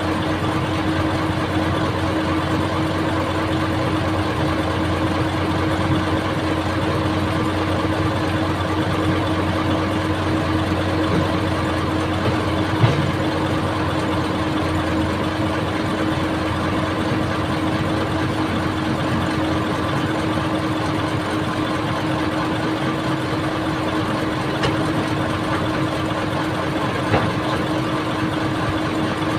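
An old excavator's diesel engine running steadily with an even hum. Two short knocks stand out, one about halfway through and one near the end.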